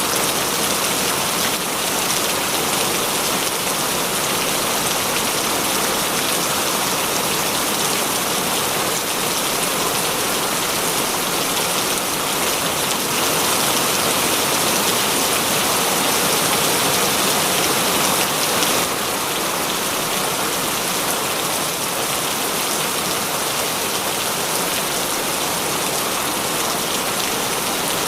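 Heavy rain falling steadily, a dense even hiss of drops on surfaces, a little louder for a few seconds in the middle.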